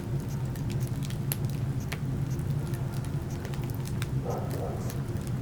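Wood fire burning in a fireplace, crackling with scattered irregular pops over a steady low rumble.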